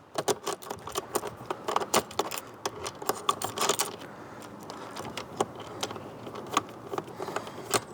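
Socket ratchet wrench clicking in quick runs of light metallic clicks as bolts are screwed in to fix a caster wheel to the trolley.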